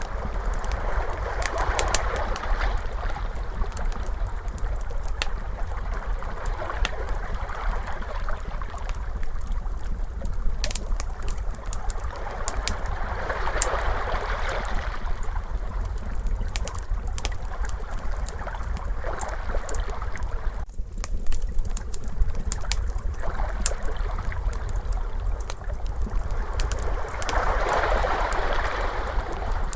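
Crackling fire with scattered sharp pops and snaps over ocean waves washing in and out, swelling about every twelve seconds, above a steady low rumble.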